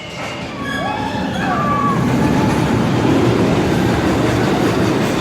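A roller coaster train rumbling along its track, the rumble building about two seconds in and staying loud. A few short high gliding tones come just before it.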